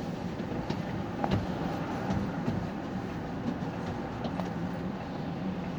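Diesel city bus idling at a stop, heard from inside the cabin: a steady low engine hum with scattered small clicks and rattles.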